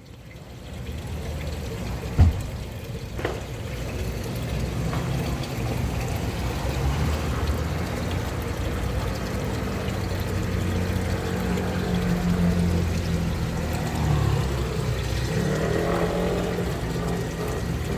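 A motor running steadily with water pouring and splashing; a sharp knock about two seconds in and a smaller one a second later.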